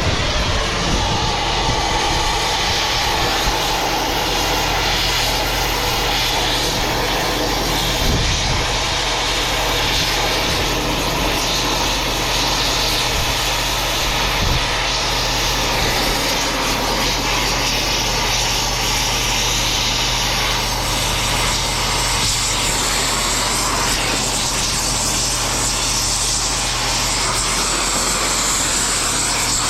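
Cutting torch giving a steady, continuous roar while it burns the cables off a chunk of scrap metal, with a low engine hum underneath.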